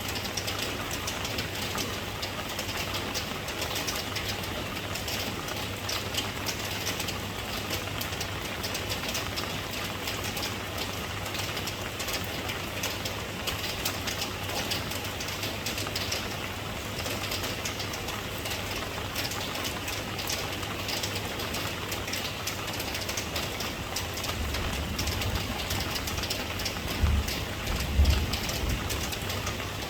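Steady rain falling, a dense hiss of many small drops pattering. Near the end a low rumble builds, with two deep thumps close together.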